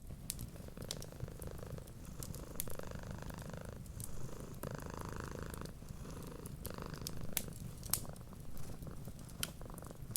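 Domestic cat purring steadily, the purr swelling and easing with each breath every second or two, with sharp pops and crackles from a wood fire scattered through it.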